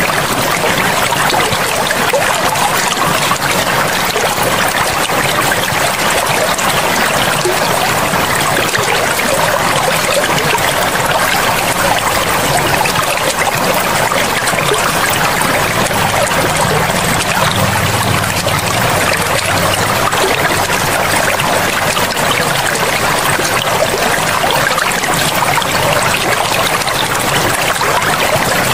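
Flowing water of a forest river, a steady, even rush without pauses.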